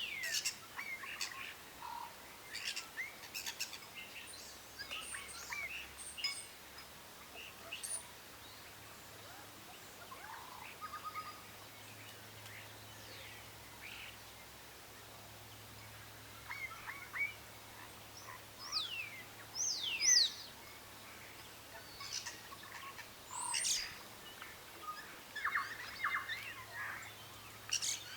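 Birds chirping and calling, several short calls scattered throughout, among them a few quick whistles that fall sharply in pitch.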